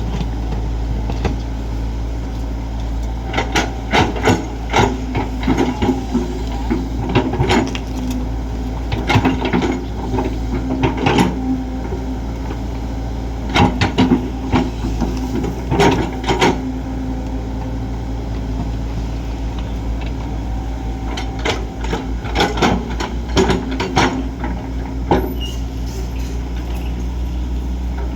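Kobelco SK200 excavator's diesel engine running steadily, with clusters of sharp knocks and clanks from the digging work coming and going.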